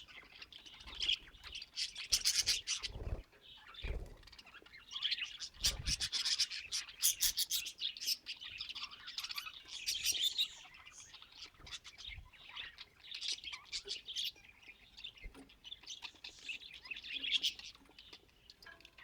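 Budgerigars chattering and warbling with rapid chirps and clicks, with a few soft low thumps a few seconds in.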